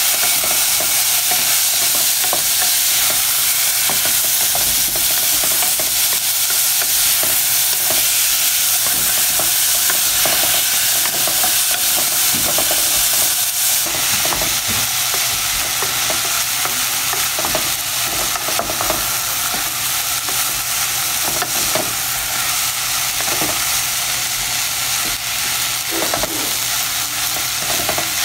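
Vegetables and cooked rice sizzling steadily in hot oil in a saucepan while a wooden spatula stirs and scrapes through them, with many short scrapes and knocks against the pan.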